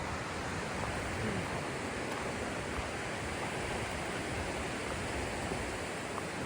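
River rapids rushing steadily, an even wash of white water without a break.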